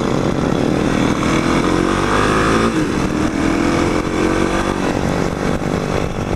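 Motorcycle engine running under way, its pitch rising as it pulls, dropping once about halfway through, then climbing again.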